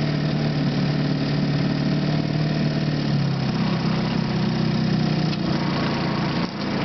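1953 Johnson TN-28 5 hp two-cylinder two-stroke outboard motor running steadily at low speed, its pitch shifting slightly about three seconds in and dipping briefly near the end. The motor has been freshly serviced with new coils, condensers, points and impeller, and runs like new.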